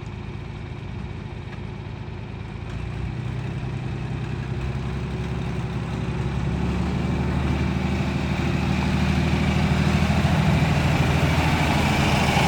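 John Deere 4020 tractor's six-cylinder engine running, growing steadily louder from about three seconds in.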